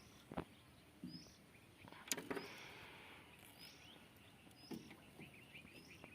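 Faint outdoor ambience with a bird giving a short, high chirp about once a second, and a couple of soft knocks.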